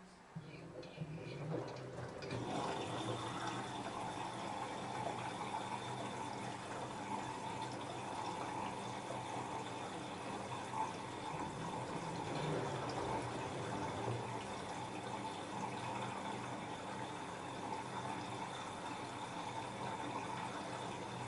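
LG F10A8HDS5 front-loading washing machine filling with water: the inlet valve opens just after the start and water rushes in, building over about two seconds and then running steadily.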